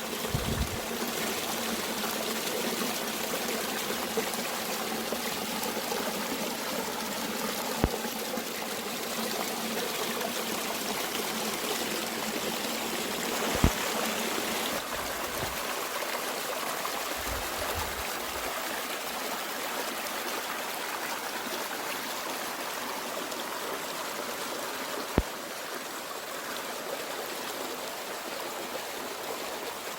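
Mountain stream flowing steadily, with a few sharp clicks near 8, 14 and 25 seconds.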